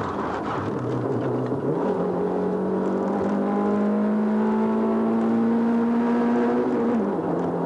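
Competition car's engine heard from inside the cabin, running hard up a mountain road. The revs sit low for about two seconds, then the engine pulls and climbs steadily in pitch, and the pitch drops at a gear change near the end.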